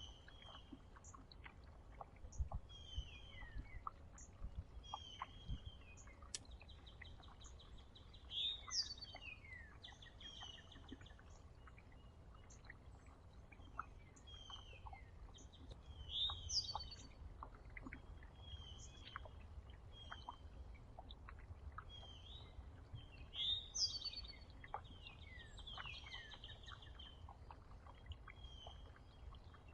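Several small songbirds at a feeder chirping and calling over and over, with short buzzy trills and three louder slurred calls that fall in pitch, about a third, half and three quarters of the way through. A faint low rumble lies underneath.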